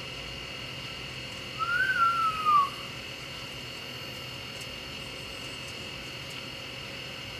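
A parrot gives a single whistle lasting about a second, about a second and a half in, rising and then falling in pitch, over a steady background hiss.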